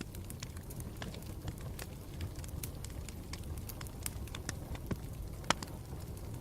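Campfire burning with a low steady rumble and irregular sharp crackles and pops of burning wood, one louder pop about five and a half seconds in.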